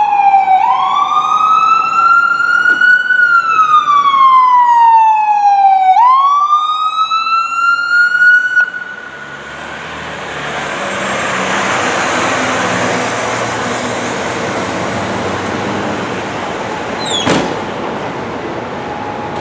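Emergency vehicle siren wailing, sweeping slowly up and down in pitch three times, then cutting off about nine seconds in as the vehicle arrives. After it stops, a steady rushing vehicle noise remains, with one sharp click near the end.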